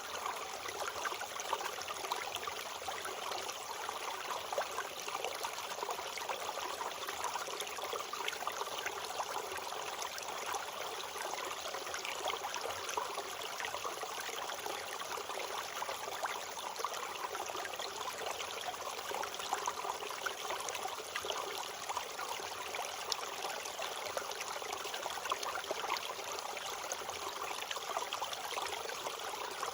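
A stream running and babbling steadily, an even rush of water with fine splashing detail.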